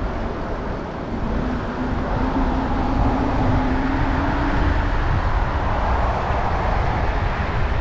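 Wind rushing and buffeting over the microphone of a moving electric bike, with a faint whine that rises slightly in pitch a couple of seconds in.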